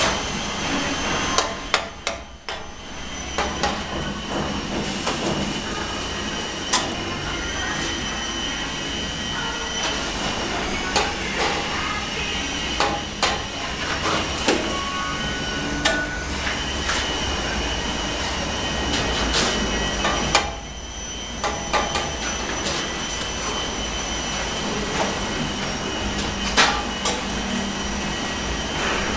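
Electric power tool motor running with a steady whine, cutting out briefly about two seconds in and again about twenty seconds in, with scattered sharp knocks and clinks of tools on brick and mortar.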